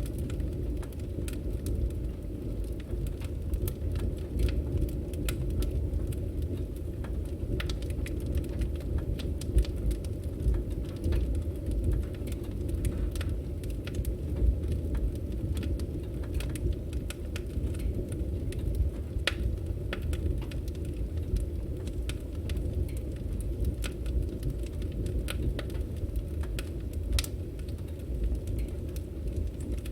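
Firewood burning: a steady low rush from the fire with irregular sharp crackles and pops from the burning logs.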